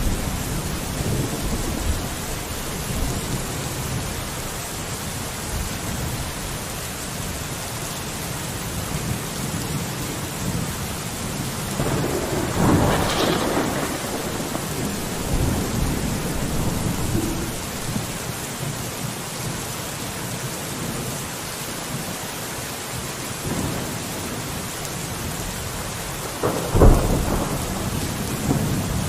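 Steady rain falling against a window, with a low rumble underneath. A louder swell comes about twelve seconds in, and a short sharp crack near the end.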